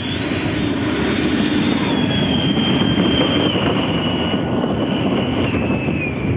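Electric ducted-fan jet model running at high power on its takeoff run. Its 120 mm JP Hobby 12-blade aluminium rotor in a 3D-printed plastic shroud, driven by a HET 700-98 brushless motor, gives a loud rushing noise with a high whine. The whine drops slightly in pitch about two seconds in and again near the end.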